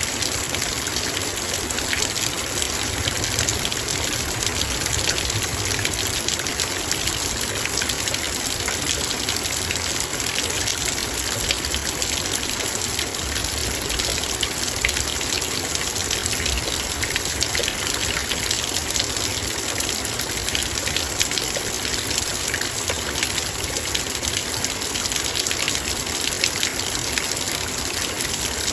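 Heavy rain falling steadily on a metal bowl: a dense, even rush of rain with many fine ticks of drops striking the metal.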